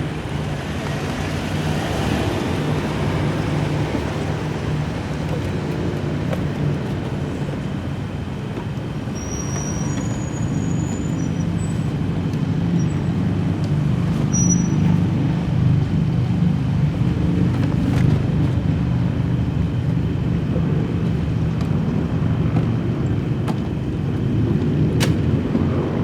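Steady low rumble of road vehicles and traffic, swelling and easing slowly, with a couple of sharp clicks late on.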